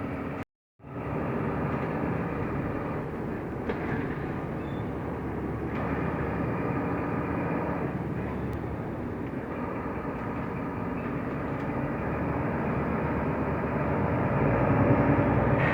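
Mercedes-Benz Türk O345 Conecto LF city bus under way: steady engine and road noise, with a brief dropout to silence about half a second in, and getting louder near the end.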